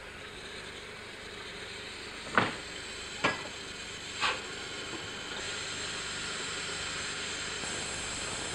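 Beyer Peacock narrow-gauge steam locomotive hissing steam. Three sharp bursts about a second apart come two to four seconds in, the first the loudest, and the hiss grows louder about five seconds in.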